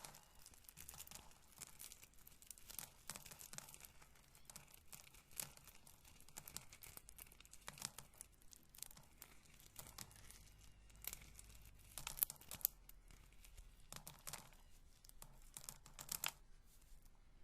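Roasted corn kernels being rubbed and handled, a dense, fine crackling of many small clicks, with a few sharper clicks about two-thirds of the way in and near the end.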